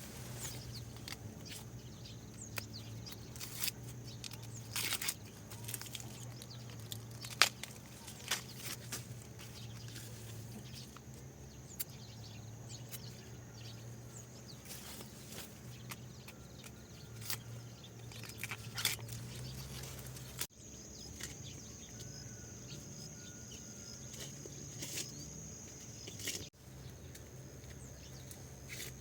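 Rural outdoor ambience: a steady high insect trill, stronger in the last third, over a low steady hum, with scattered sharp crunches and clicks close by.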